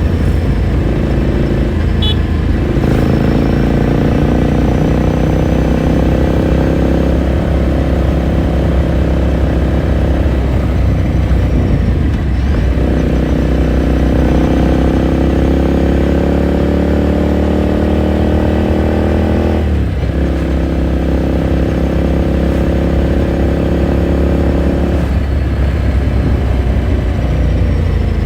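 2018 Ducati Scrambler Sixty2's 399 cc air-cooled V-twin running under way, heard onboard. The exhaust note climbs slowly in pitch, drops sharply twice (about 12 and 20 seconds in) as the rider changes gear, and then holds steady before turning rougher near the end.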